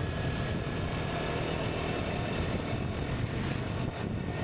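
KTM Duke 125's single-cylinder four-stroke engine running steadily as the motorcycle rides along at an even throttle.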